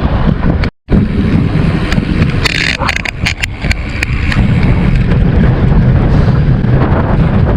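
Wind buffeting a bike-mounted action camera's microphone while riding, a loud low rumble, broken by a brief gap just under a second in and joined by a handful of sharp clicks and rattles around three seconds in.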